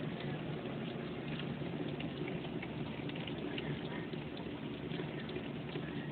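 Heavy rain pouring down steadily, a dense patter of drops over a continuous rush.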